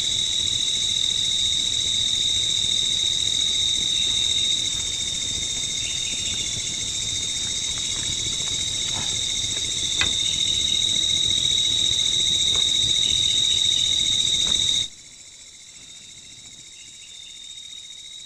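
Night chorus of forest insects: a steady, high-pitched trill with a hiss above it, joined by a few faint clicks. About fifteen seconds in the whole sound drops abruptly to a quieter level, the insect trill carrying on.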